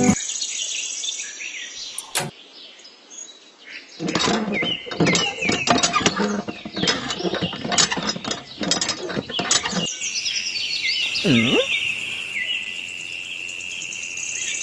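Birds chirping in short high tweets. Through the middle stretch comes a busy run of quick knocks and clatter, and near the end a steady high-pitched tone runs under the chirps.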